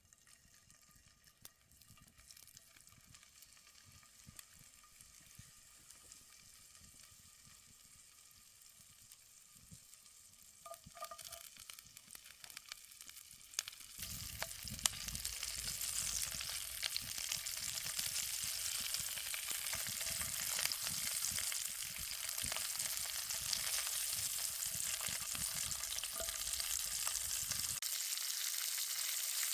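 Food frying in a cast iron skillet over a campfire, with small crackles throughout. The sizzle is faint at first, grows, then jumps to a loud, steady sizzle about halfway through.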